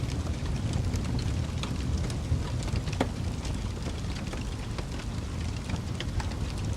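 Wood fire crackling: irregular sharp pops and snaps over a steady low rumble, with a stronger pop about three seconds in.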